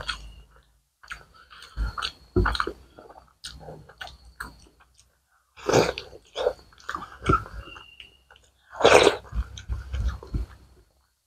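Close-miked eating sounds: chewing a mouthful of chicken curry and rice, in short irregular bursts with brief silent gaps between them.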